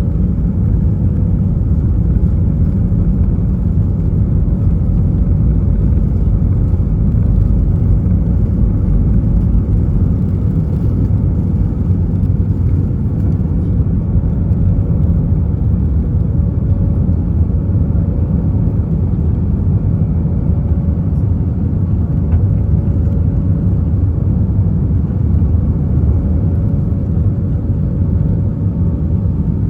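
Airbus A320 cabin noise during take-off and climb: the IAE V2500 engines running at take-off power, a loud steady low rumble with a faint steady hum above it.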